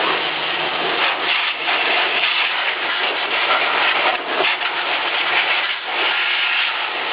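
Vacuum cleaner running in blow mode, a loud steady rush of air whose tone and level waver as the nozzle's blast moves over the computer's insides.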